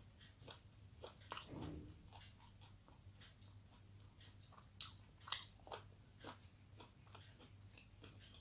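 Faint close-up chewing: a string of small, moist mouth clicks, with a few sharper crunches about a second in and again around five seconds in.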